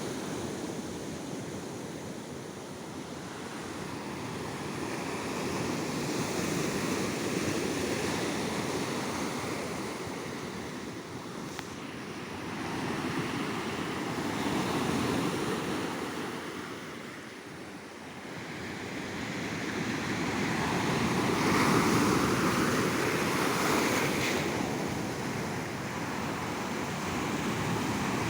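Ocean waves breaking and washing up on a beach, the surf swelling and ebbing in slow surges, loudest about three quarters of the way through.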